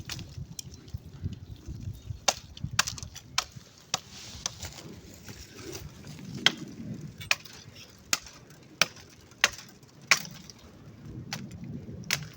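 Sharp knocks at irregular intervals, roughly one a second, over a low rumble.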